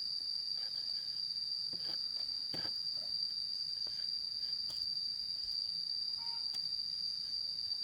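Insects chirring steadily in one continuous high-pitched tone, with a few faint knocks here and there.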